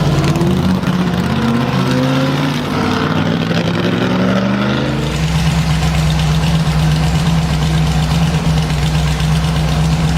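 Shelby Daytona Cobra Coupe's V8 exhaust under acceleration, its pitch climbing in steps through the first half, then holding one steady note.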